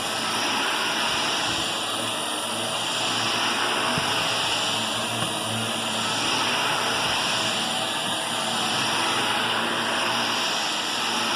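Vacuum cleaner running steadily, its level rising and falling slightly every few seconds.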